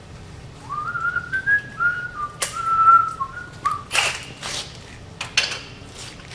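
A person whistling a short wavering tune for about three seconds, followed by several sharp knocks as work goes on.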